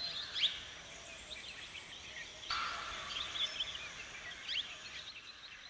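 Outdoor ambience with small birds chirping: many quick, high chirps scattered throughout over a faint hiss that grows a little louder about two and a half seconds in.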